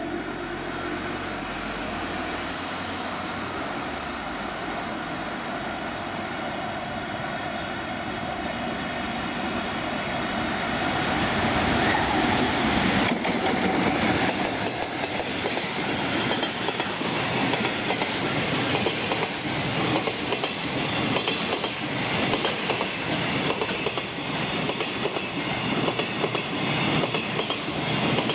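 A JR Freight EF200 electric locomotive hauling a container freight train approaches and passes, growing louder until it goes by about halfway through. The container wagons then roll past with a fast, continuous rhythmic clatter of wheels on the rails.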